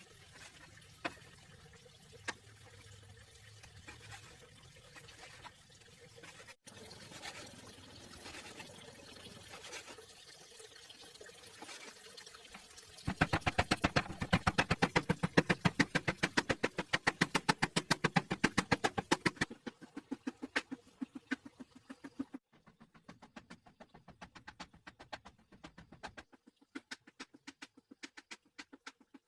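Hand food preparation: a few faint clicks, then from about halfway a fast, even run of sharp strokes, about seven a second, lasting some six seconds, followed by slower, scattered strokes.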